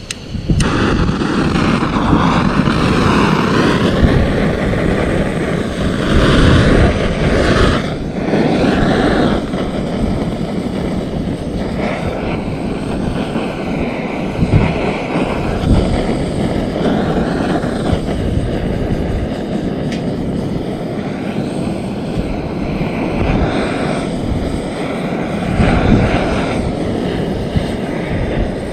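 Handheld gas torch burner running with a steady, loud jet of flame, lit suddenly at the start, its tone wavering as it is played over driftwood and pine-cone kindling to light a campfire.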